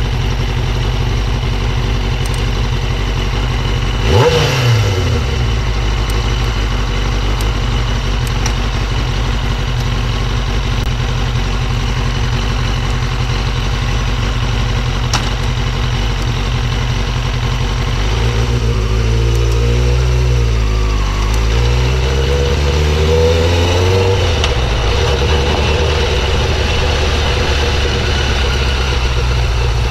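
Motorcycle engine running at a steady idle. About four seconds in, a sharp rev falls quickly back down, and later the engine's pitch sags and climbs again a couple of times.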